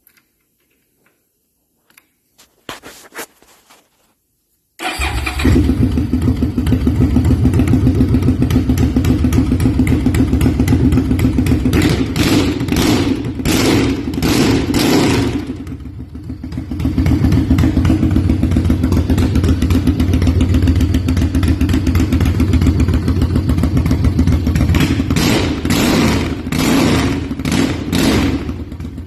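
Suzuki VZ800 Marauder's V-twin engine turned over on the starter and catching about five seconds in, then running loud through its exhaust. The throttle is blipped in a quick run of revs around the middle, the engine settles back to idle, and it is revved again near the end.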